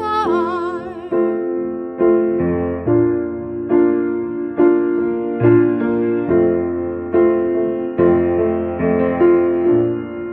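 Keyboard playing slow, evenly spaced chords, roughly one a second. A held note with vibrato, most likely a singing voice, fades out in the first second.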